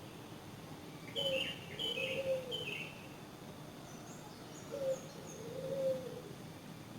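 Birds calling: a low two-note call, a short note followed by a longer drawn-out one, comes twice, about a second in and again near five seconds. Between them a smaller bird gives three quick high chirps, and a few faint high notes follow.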